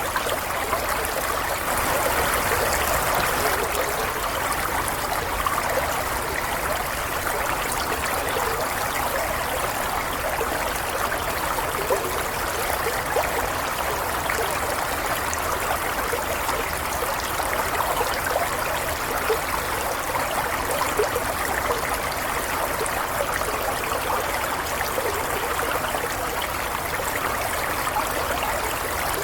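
Water of a small stream running and trickling steadily.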